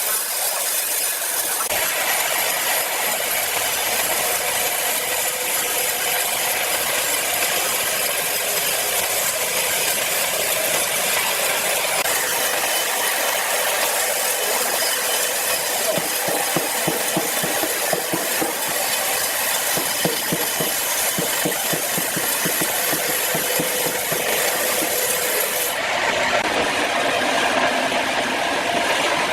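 Powered sawmill saw cutting through a large log: a steady, loud cutting noise with rattling in the middle of the cut.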